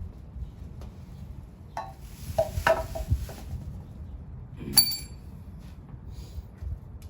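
Metal tools and engine parts clinking and knocking during hand disassembly, with one sharp ringing metal clink about five seconds in.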